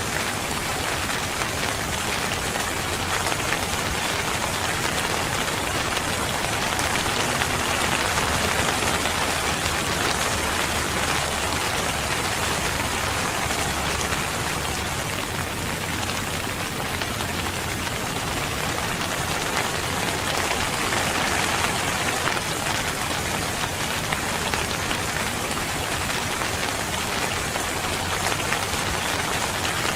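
Steady rain falling and pattering on surfaces, an even hiss with gentle swells in loudness.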